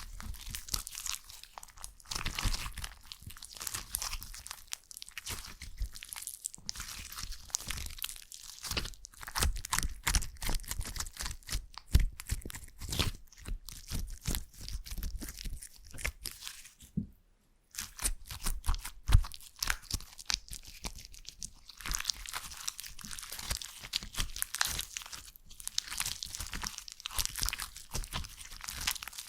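Slime being squished and worked close to the microphone: dense, irregular crackling and popping clicks, with a brief pause about seventeen seconds in.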